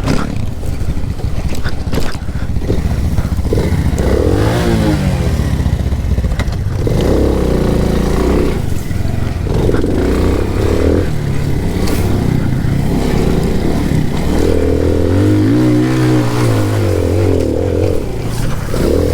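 Alpha moped's single-cylinder four-stroke engine labouring up a steep hill, its note rising and falling several times as it works at the limit of its power.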